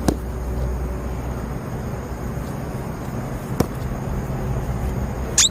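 A steady low outdoor rumble, with a sharp knock just after the start and another about three and a half seconds in, then a brief high squeak near the end.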